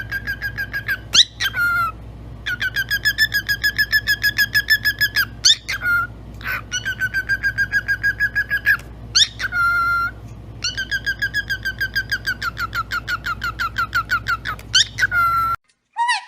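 A pet parrot making long runs of rapid, repeated high whistled beeps, about eight a second, broken every few seconds by a quick rising and falling whistle.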